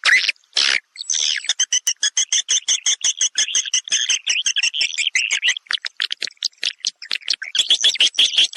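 Recorded edible-nest swiftlet calls played as a swiftlet-house lure sound: a few longer chirps, then a fast run of short twittering chirps, about ten a second, which grows louder and denser near the end.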